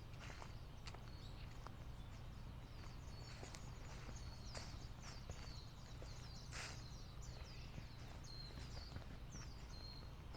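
Small birds chirping: many short, high calls in quick succession. Footsteps on the trail sound now and then, over a low steady rumble.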